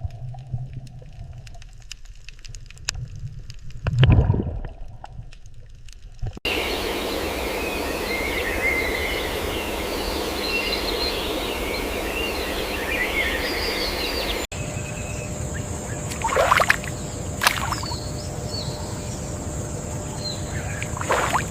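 Outdoor nature ambience in three cut-together stretches. First a quiet stretch with a few clicks and a low thump, then a steady rushing background with small birds chirping, then a steady high-pitched tone with a few brief downward sweeps.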